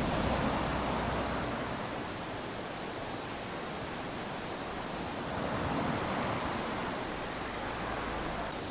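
Small waves washing up onto a sandy beach: a steady hiss of surf that swells twice, once at the start and again about six seconds in.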